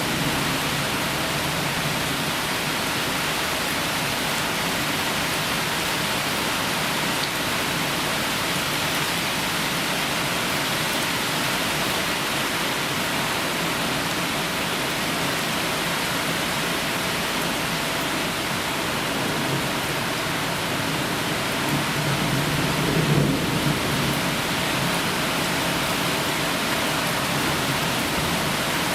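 Heavy rain falling steadily during a thunderstorm, with a low rumble of thunder about three-quarters of the way through.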